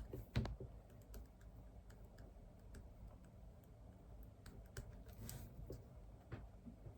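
Computer keyboard being typed on quietly in irregular keystrokes, with one louder knock about half a second in.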